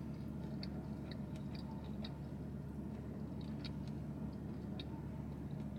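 A mouthful of fried chicken sandwich chewed with the mouth closed, heard as soft wet clicks every fraction of a second over a steady low hum.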